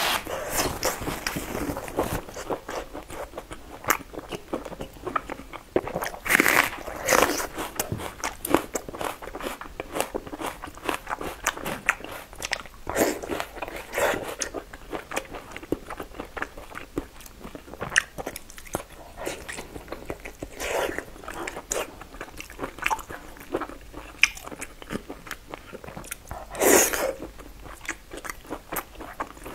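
Close-miked chewing of soft red-braised pork belly: a run of many small mouth clicks, with several louder bites spread through.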